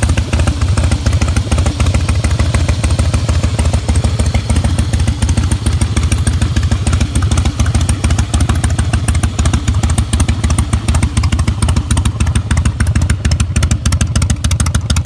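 Harley-Davidson FXSB Breakout's V-twin engine running steadily through its exhaust, a loud, even, rapid exhaust beat with no revving.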